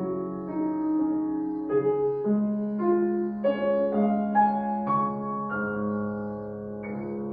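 Solo piano playing a slow classical passage: single notes struck over held bass notes, each ringing on, with the playing growing softer in the last couple of seconds.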